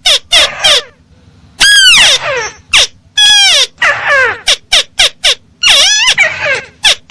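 Bird-lure recording of a crake (burung tikusan) calling: a loud run of harsh, pitched notes, some short and quick, others longer and sliding downward, with short gaps between them.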